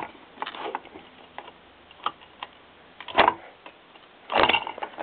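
Hand tools and metal engine parts clicking and clinking during disassembly of an 80cc motorized-bicycle engine: scattered light ticks, a louder clank about three seconds in and a rattling clatter near the end.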